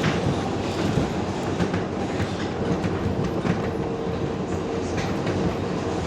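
R142A subway train running at speed, heard from inside the car: a steady rumble of wheels on the rails with scattered clicks from the track joints, and a faint steady tone in the middle.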